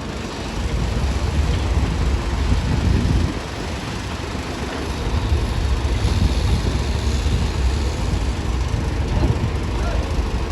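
Diesel engine of heavy earthmoving machinery running with a deep, steady rumble that eases briefly about three seconds in.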